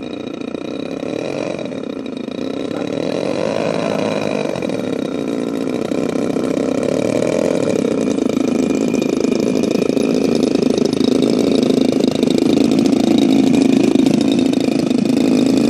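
Twin DLE 35cc two-stroke petrol engines of a large model Cessna 310 running at low throttle, their note wavering a little and growing steadily louder.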